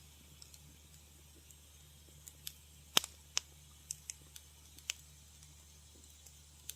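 Wood fire crackling in a fireplace: irregular sharp pops and snaps over a faint steady background, the loudest pop about three seconds in.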